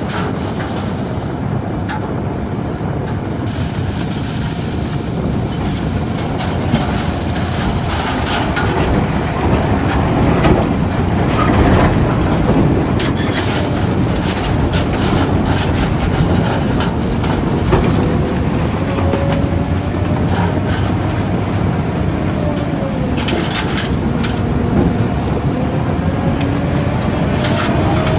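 A heavy construction machine's diesel engine running steadily, with repeated metallic clanks and a faint whine that wavers up and down.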